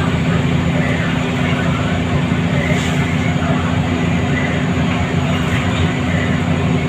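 Scania L94UA bus's diesel engine running steadily with road and tyre noise, heard from inside the passenger cabin.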